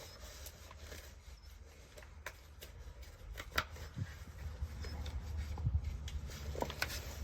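Hands handling things at close range: rustling and rubbing with scattered light clicks, over a steady low hum that gets a little louder about halfway through.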